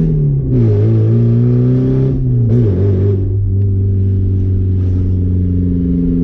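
Straight-piped 2.7-litre four-cylinder engine of a 1989 Porsche 944 driving under load. Its pitch drops right at the start and again about two and a half seconds in, as with gear changes, then settles into a steady low drone.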